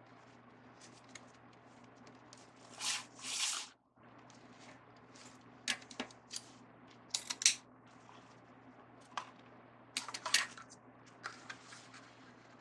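Craft ribbon handled and cut: two brief rustling swells about three seconds in, then a run of short, sharp snips and clicks, scissors cutting and ribbon being worked into a bow.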